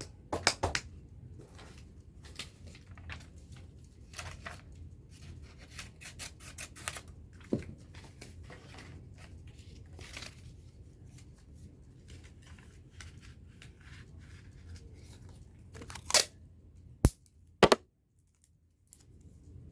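Paper being handled while crafting a paper puppet: short, irregular rustling and snipping strokes, with three sharp clicks near the end.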